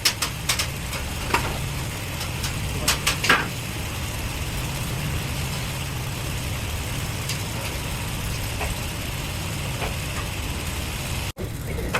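Steady low drone of running heavy machinery, with several sharp metallic clicks and knocks in the first few seconds and a few fainter ones later. The sound cuts out briefly near the end.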